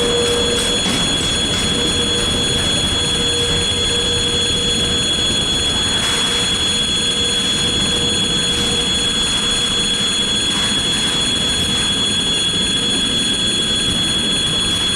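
Freight train rolling past at close range: a steady, loud rumble of wagons on the rails with a thin steady high tone over it.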